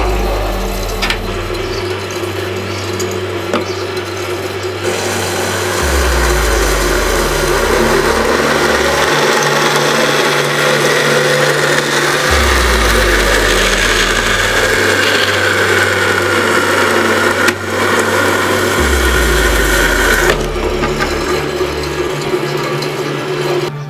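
Homemade vertical metal-cutting bandsaw running, its bi-metal blade cutting through metal with a steady rasping noise. The noise gets louder and fuller about five seconds in and falls back near the end.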